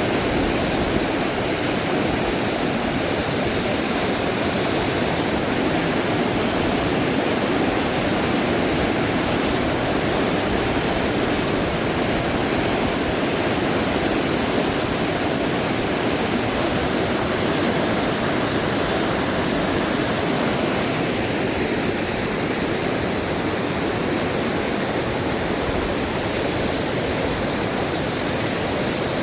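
Fast-flowing river water rushing steadily, with a high hiss over it that drops away a few seconds in.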